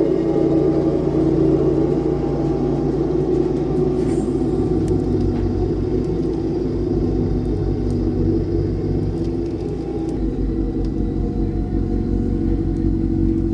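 John Deere X738 lawn tractor's engine running steadily, with a low, even throb.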